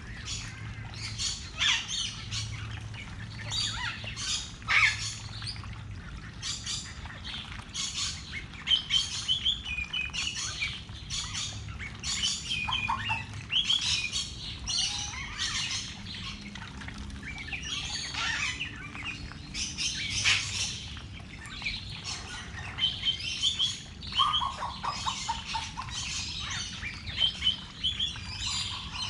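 Birds chirping and calling: a dense run of short, high chirps throughout, with a lower series of calls about 24 seconds in and again near the end.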